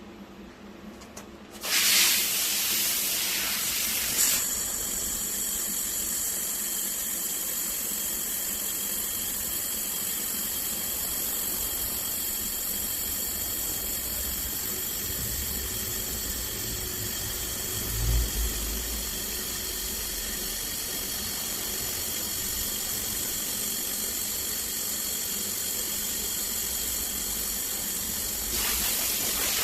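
Handheld fiber laser welder running, a steady hiss with a thin high whine that starts abruptly about two seconds in and holds evenly. There is a brief low thump about midway.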